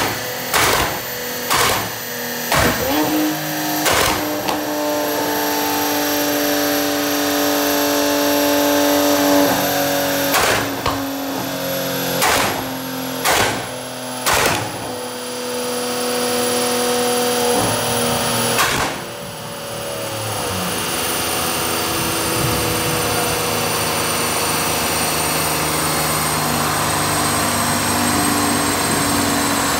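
Toyota GR Supra A90's 3.0-litre turbocharged straight-six running on a chassis dyno through a titanium HydraTech exhaust, a steady drone broken by about ten sharp, irregularly spaced bangs over the first nineteen seconds, then running on steadily.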